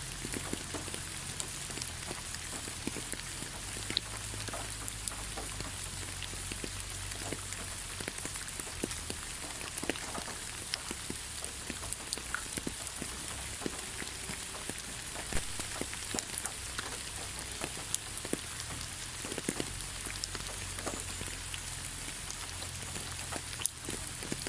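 Steady rain falling, an even hiss with scattered individual drops tapping sharply.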